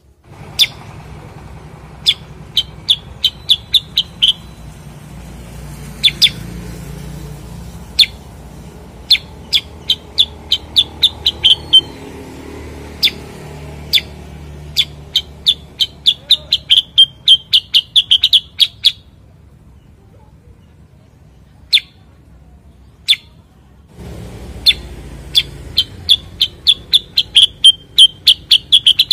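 Cucak kurincang (common iora) singing: sharp single chirps, and runs of quickly repeated notes that speed up into short trills, several times over. A low steady hum lies underneath.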